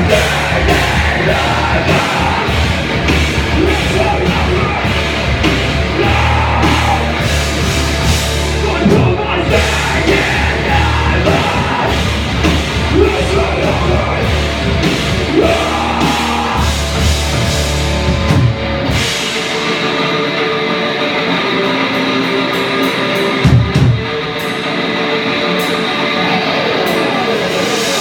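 Live rock band playing loud heavy rock, with drum kit, guitars and vocals. About two-thirds through, the bass end drops out and the band thins to guitar and drums.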